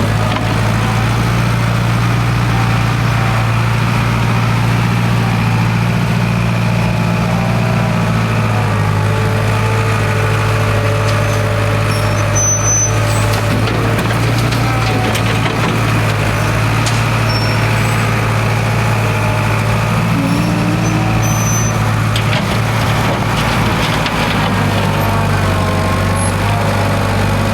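International 270A backhoe's diesel engine running steadily at idle.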